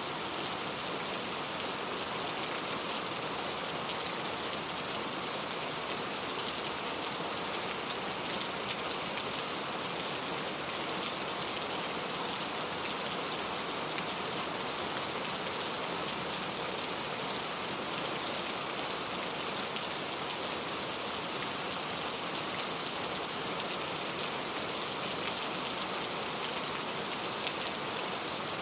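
Steady rain falling: an even hiss with a fine, constant patter of drops, unchanging in strength throughout.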